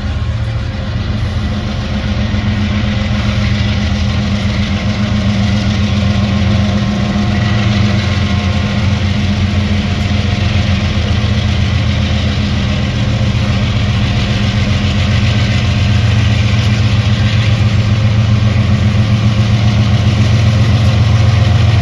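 Diesel locomotive engines running with a steady heavy drone, growing slowly louder.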